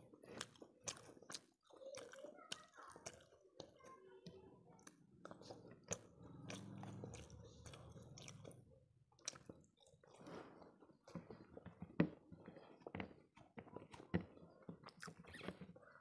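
Close-miked wet chewing and mouth clicks of someone eating rice and fish curry by hand, with irregular sharp smacks and one louder pop about twelve seconds in.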